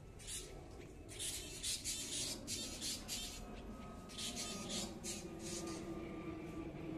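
Birds squawking in a run of short, scratchy calls that stop about a second before the end.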